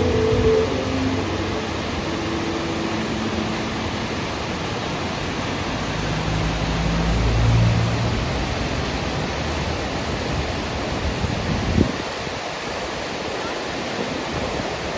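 Steady rushing noise with no clear pitch. A single sharp click comes near the end, and a tail of music dies away at the very start.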